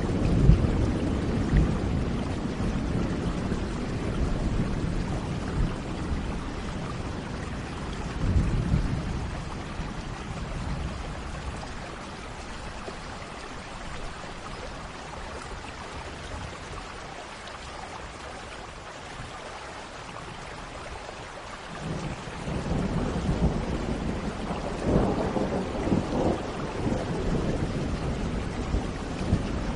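Thunderstorm: steady rain with rolls of thunder, a rumble fading out at the start, another around a third of the way in, and louder rumbling again over the last third, with a quieter stretch of just rain in the middle.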